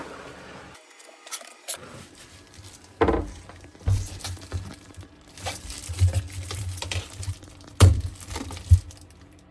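Handling noises: several sharp knocks and clinks, with rustling and rubbing between them, starting about three seconds in.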